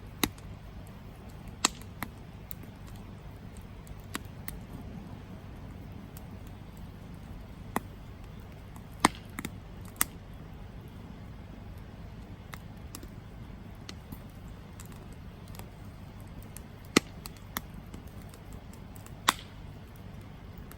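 Campfire crackling: about ten sharp pops at irregular intervals, a few of them loud, over a steady low rush.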